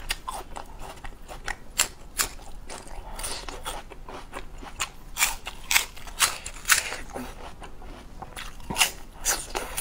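Close-up bites and chewing of raw gorgon plant (Euryale ferox) stalks, a juicy vegetable stem: a series of separate sharp crunches, more frequent in the second half.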